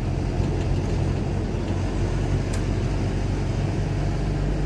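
Steady engine hum and road noise of a car driving, heard from inside the cabin.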